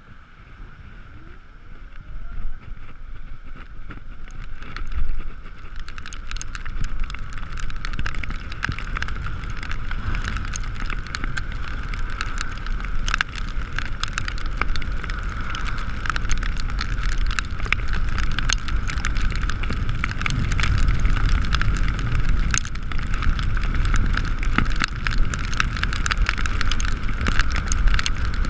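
Riding an Ekoway ML5000 electric two-wheeler on a wet road: wind and tyre noise grow louder over the first few seconds as it gathers speed, then run on steadily with a high whine and a constant crackle of raindrop ticks.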